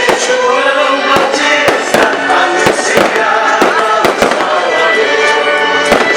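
Fireworks or firecrackers going off in a rapid, irregular string of sharp bangs, several a second, over loud music.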